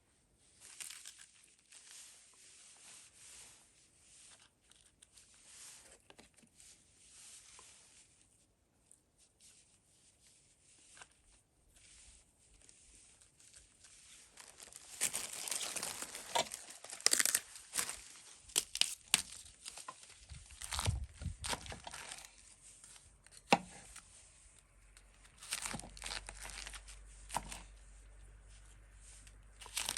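Hand-handling noise, tearing and crumpling: faint rustling at first, growing louder about halfway with irregular scraping and sharp knocks.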